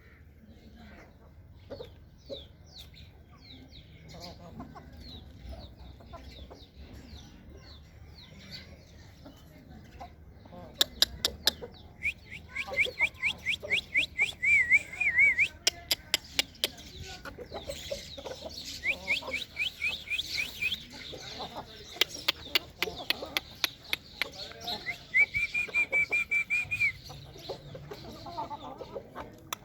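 Aseel chickens clucking. About a third of the way in, rapid runs of high chirping notes and a string of sharp clicks start and continue, making it much louder.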